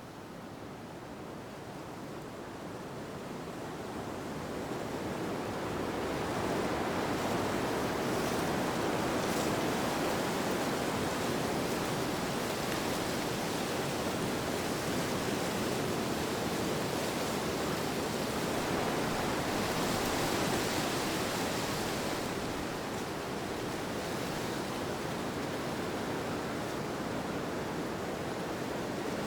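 Steady wind-like rushing noise, swelling over the first several seconds and then holding level, with a brief gust-like swell around twenty seconds in.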